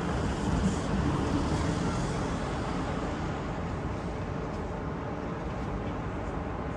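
Street traffic noise, with a vehicle passing by in the first two or three seconds.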